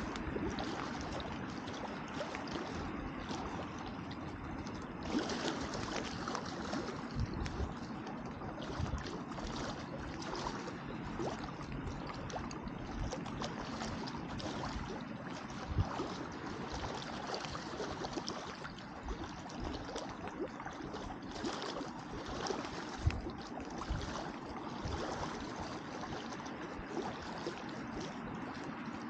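Wood campfire burning: a steady hiss with frequent small crackles and pops, and a couple of louder pops past the middle.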